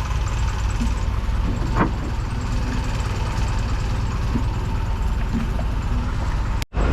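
Boat engine idling steadily, a low rumble with a faint fast ticking, while the boat waits in the water. It cuts out briefly and abruptly just before the end.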